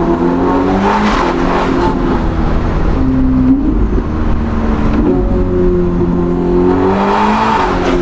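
Ferrari SF90 Spider's twin-turbocharged V8 through a Novitec sport exhaust under hard acceleration. The note climbs in pitch and drops at a gear change about two seconds in, then climbs again and shifts once more near the end.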